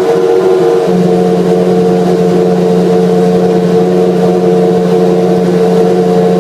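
Honda RA121E 3.5-litre 60-degree V12 engine of a McLaren MP4/6 Formula One car running steadily at a constant speed, loud and even, without revving.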